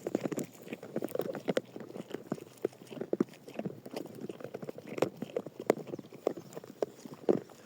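An irregular run of small knocks and clicks, several a second, with no steady rhythm.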